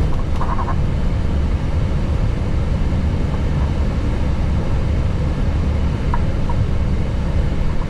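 Steady low rumble of airflow and engine noise inside an Airbus A321neo cockpit.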